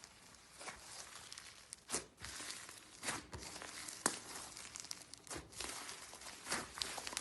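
Slime being handled, with a crinkly crackling and sharp crackles or pops about once a second.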